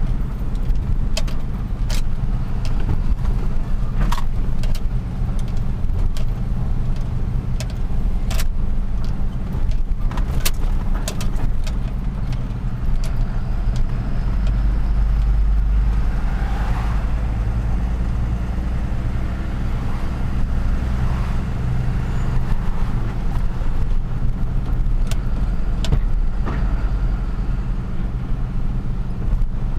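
Truck driving through city traffic: a steady low engine and road rumble, with scattered short clicks and knocks.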